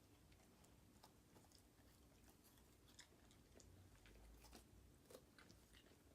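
Faint, scattered crunchy clicks of a dog chewing a piece of raw celery.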